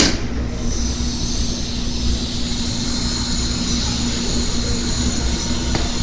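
TIG (argon) welding arc running steadily: an even hiss with a steady low hum underneath, after a sharp click at the very start.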